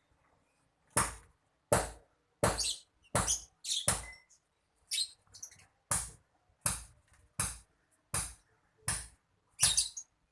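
Lovebird calling in a run of short, sharp chirps, about one every 0.7 seconds, beginning about a second in.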